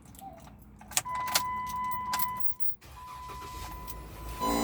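A few sharp clicks, then a steady high-pitched whine from the car's speakers that drops out briefly and comes back, turning into a harsher buzz near the end: interference noise from a faulty aftermarket Android 10.2 car radio head unit.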